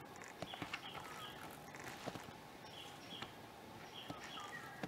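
Faint forest ambience: a bird calling over and over in short high notes, some sliding downward, with a few scattered soft clicks.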